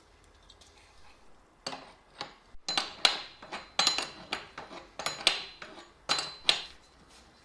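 A series of sharp metal-on-metal clinks and knocks, about a dozen, starting a couple of seconds in and stopping near the end. Several of them ring briefly.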